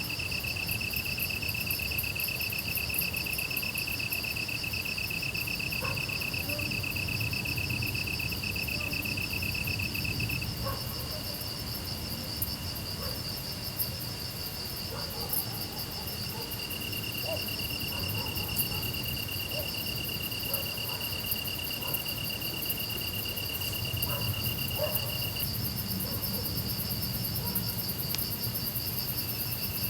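Grass insects, crickets among them, chirring in steady overlapping trills. One lower-pitched trill stops about a third of the way in, comes back past the middle and stops again near the end, while a higher one keeps going.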